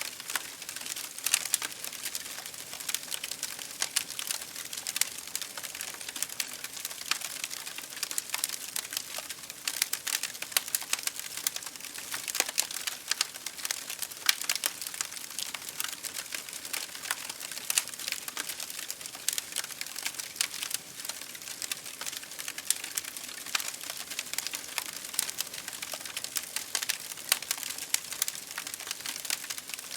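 Wood fire crackling in a fireplace: dense, irregular pops and snaps over a steady hiss of rain against a window.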